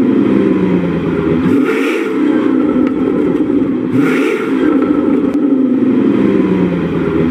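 Audi S8 with a PowerCraft aftermarket exhaust, running hard and loud. The note breaks briefly with a short hiss about every two and a half seconds, twice in all.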